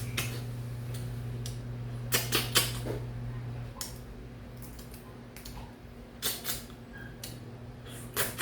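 Eating sounds at a meal of steamed crab and rice: scattered sharp clicks and clatters, with three close together about two seconds in and two more later on, over a steady low hum that stops just before four seconds.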